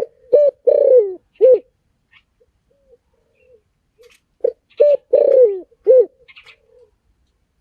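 Spotted dove cooing: two low phrases about four seconds apart, each a few short coos around one longer coo that falls in pitch.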